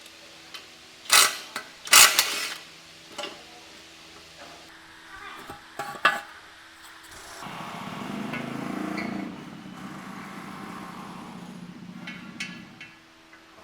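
Loud metallic clanks of metal parts being handled, two of them close together near the start, followed by a few lighter knocks. Then a steady mechanical whirr runs for about five seconds.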